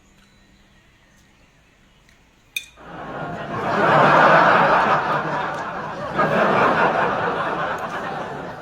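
A short click, then a person laughing hard in two long bouts, a brief break between them about six seconds in.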